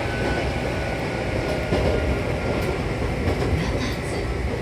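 Hankyu Kobe Line electric train running on the track: a steady rumble with a faint, slightly falling whine.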